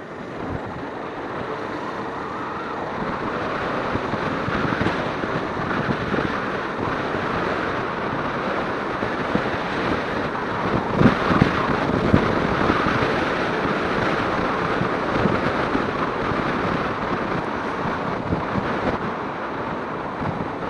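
Steady wind rushing over the microphone while riding a Suzuki Inazuma 250 motorcycle, with the bike's running and road noise underneath. A few louder knocks about eleven and twelve seconds in.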